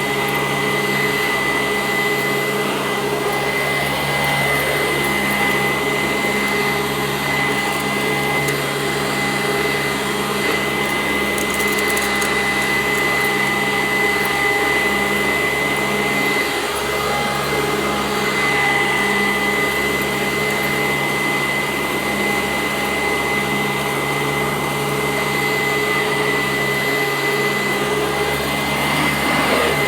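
Sanitaire SC886 commercial upright vacuum running steadily on carpet: a constant motor hum with a steady high-pitched whine.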